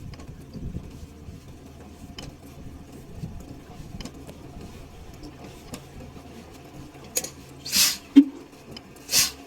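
Diesel engine running steadily at a low, even hum. Near the end come a few short, loud hissing bursts and a knock.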